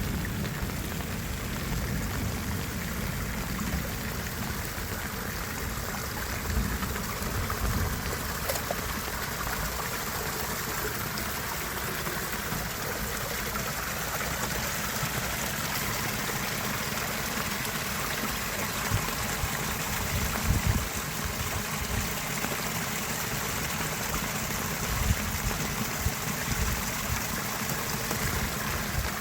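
Steady rushing water, with a few dull thumps about seven seconds in and again around twenty and twenty-five seconds.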